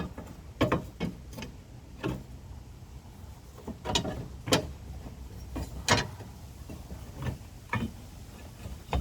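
Irregular sharp clicks and knocks, about ten in all, of hand tools and screws at work on a pickup truck's body panel as screws are loosened.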